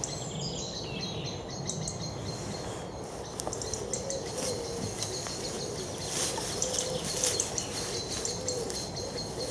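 Small birds chirping in high-pitched notes, thickening into a louder run of hissy calls about six to seven seconds in, over a faint wavering low hum.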